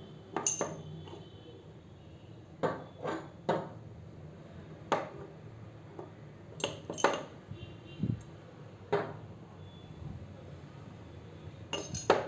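Chess pieces being picked up and set down on a chessboard: about a dozen sharp clicks and clinks, irregularly spaced, with a duller knock about eight seconds in and a quick cluster near the end.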